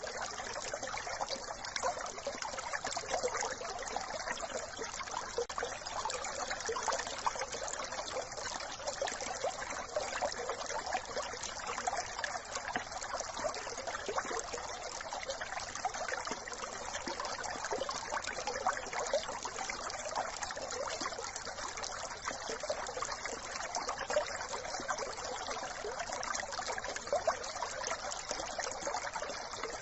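Small brook trickling and babbling steadily over stones, a dense, even rush of water.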